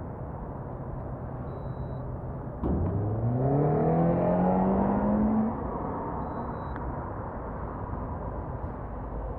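Motorcycle engine accelerating: it opens up suddenly about two and a half seconds in, climbs steadily in pitch for about three seconds, then backs off, over a steady low rumble of riding noise.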